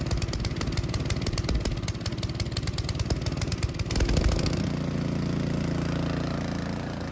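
Small gasoline engine of a walk-behind snowblower running after being pull-started. About four seconds in its sound changes from a fast, even pulsing to a steadier hum.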